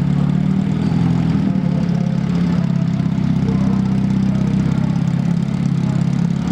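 Car engine running steadily with a deep, even drone.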